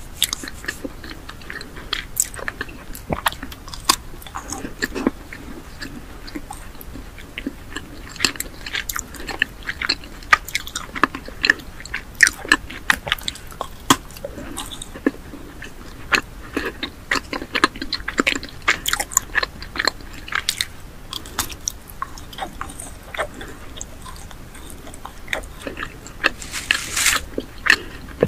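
Close-miked biting and chewing of chocolate made to look like rusty tools: a steady run of sharp, irregular snaps and crunches, with a louder burst of crunching near the end.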